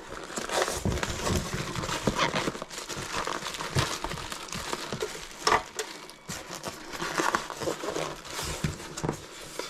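Cardboard and plastic packaging rustling and crinkling as exercise bike parts are pulled out of their box, with scattered knocks.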